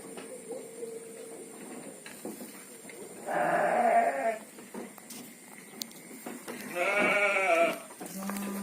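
Garut sheep bleating twice, two calls of about a second each, a few seconds apart.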